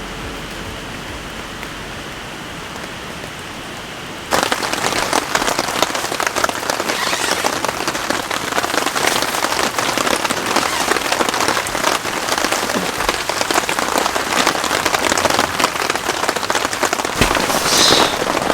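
Heavy rain, muffled for the first four seconds, then suddenly much louder and closer, with dense hits of drops on surfaces.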